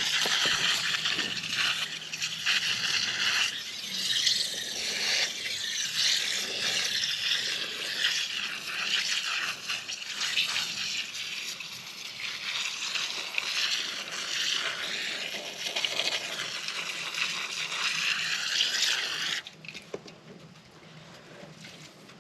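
Aerosol can of foaming no-rinse coil cleaner spraying a narrow jet into the fins of an RV air conditioner's coil. The spray hisses steadily with uneven swells, then cuts off shortly before the end.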